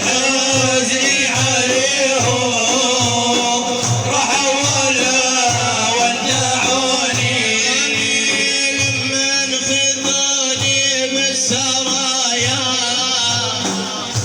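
Mawlid religious singing: male voices chanting over a drum beating a steady, even rhythm.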